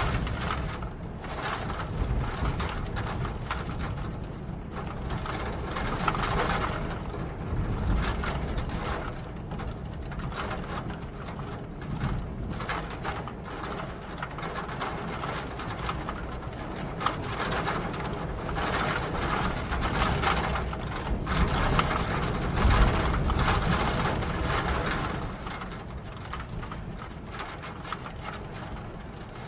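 Rain falling, a dense clatter of drops over a low rumble, swelling louder and easing off every few seconds.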